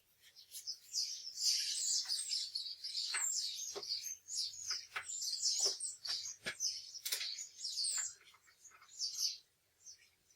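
A bird chirping and twittering rapidly in high, busy bursts, mixed with a few sharp clicks.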